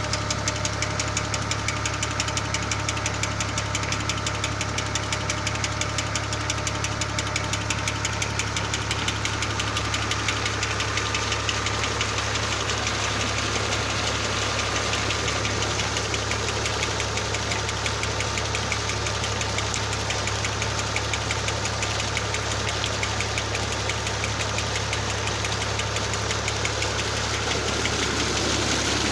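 New Holland Ghazi tractor's diesel engine running steadily at a constant speed with a fast, even firing pulse, driving a tubewell pump through a shaft. It grows slightly louder near the end.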